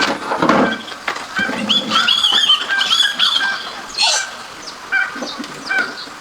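Birds chirping in short, repeated calls, with a few clicks and knocks mixed in.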